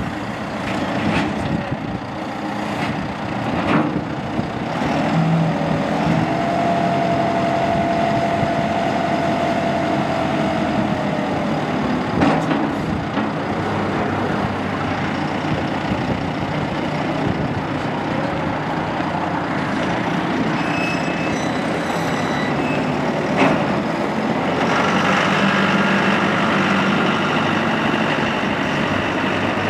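A John Deere 5090E's turbocharged four-cylinder diesel engine running steadily, with a few sharp knocks. A steady whine holds for about six seconds, and the engine gets louder near the end.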